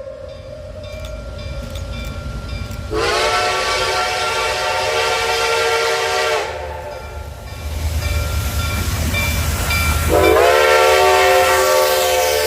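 Reading & Northern T1 4-8-4 steam locomotive 2102 blowing its steam whistle: two long chime blasts, each sliding up in pitch as it opens, the first about three seconds long and the second starting near the end. A low rumble from the working locomotive fills the gap between them.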